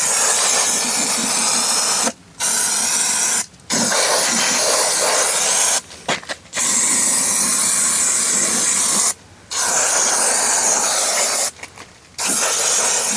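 Aerosol brake cleaner spraying in six bursts of about two seconds each, with short breaks between, washing oil off the lawn mower.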